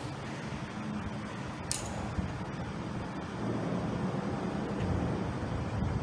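Steady low rumble of road traffic, with a single short click just before two seconds in.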